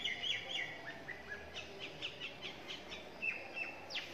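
Birds chirping: a run of short, high chirps that slide downward, several a second, with a few flatter notes near the end.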